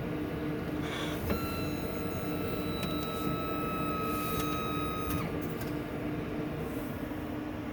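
Brake squeal from a CJ3: a steady high-pitched squeal sets in about a second in, holds for roughly four seconds and cuts off suddenly, over a steady running noise and a faint pulsing hum. This is the abnormal brake noise.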